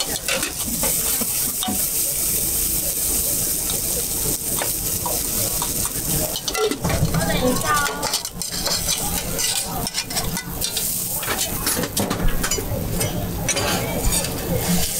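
Potato rösti frying with a steady sizzle, while a metal utensil scrapes and clinks against the cooking surface again and again.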